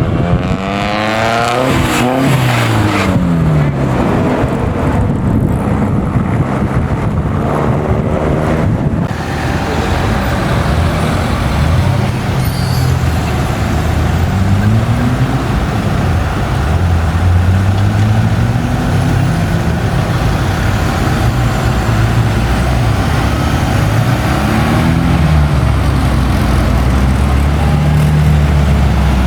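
Classic and historic race cars driving past, their engines running loud. In the first few seconds one car passes close, its engine note sweeping down in pitch; after that several more engines rise and fall in pitch as cars go by and change speed.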